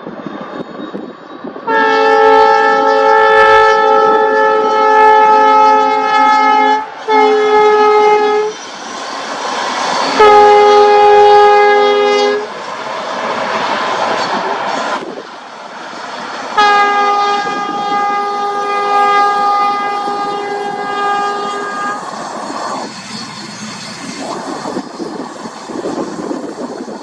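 An express train passing, its EMD WDP4-family diesel locomotive sounding a chord horn in four blasts: a long one, a short one, a medium one, then another long one. Under the horn, the steady rumble and clatter of the coaches' wheels on the rails.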